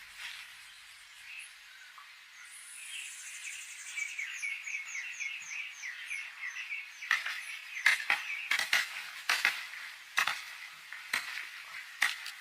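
Animal calls: a run of high, repeated chirps for a few seconds. From about seven seconds in, a series of sharp, irregular clicks or knocks takes over and is the loudest sound.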